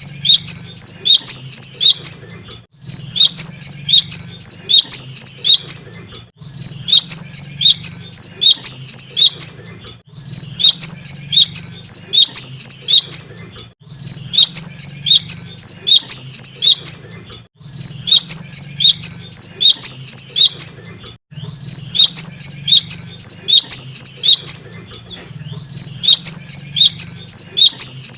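Cinereous tit singing vigorously: bouts of about three seconds of quick, high repeated notes, each followed by a brief pause, about eight bouts in all. A faint steady low hum lies underneath.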